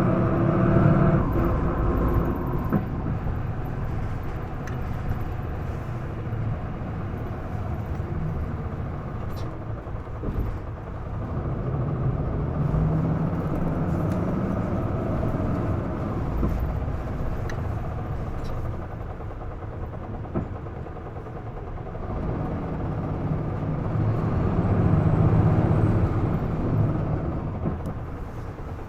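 Isuzu Erga PDG-LV234L2 city bus heard from inside the passenger cabin, its engine running as the bus drives. The engine note rises and falls several times as it pulls and eases off.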